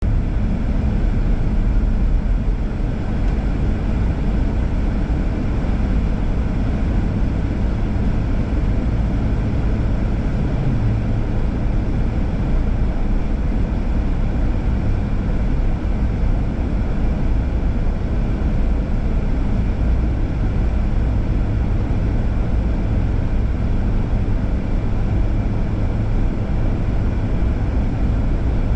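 Steady road noise of a car being driven: a constant low drone of tyres and engine.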